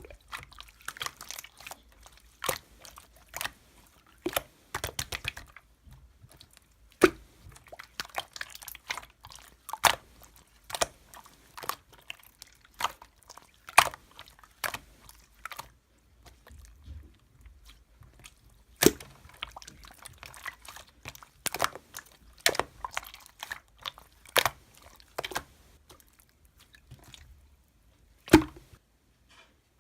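Slime being squeezed and pressed by hand, giving irregular sharp pops and crackles with softer squishing between them.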